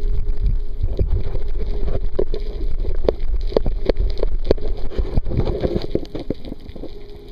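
Muffled underwater sound picked up by a submerged camera: a heavy low rumble of water moving against the camera, with repeated knocks and clicks and a steady engine-like hum beneath.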